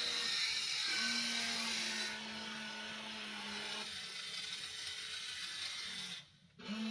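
Small electric motors of a WLtoys RC excavator whirring steadily over a high hiss, cutting out for a moment near the end and then starting again.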